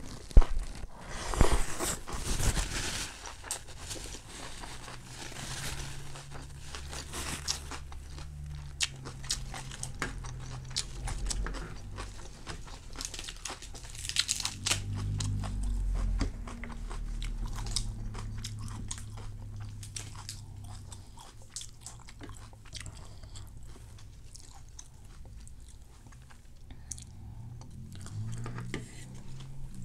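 Close-up biting and chewing of crispy banh xeo (rice pancake): loud crunchy bites in the first few seconds and again around the middle, with softer chewing in between.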